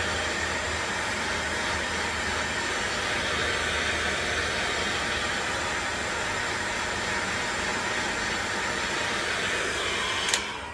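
Heat gun running steadily, a blowing hiss over a low motor hum, heating the suspension trumpet to loosen the seized rubber cone. It is switched off with a click near the end and the sound falls away.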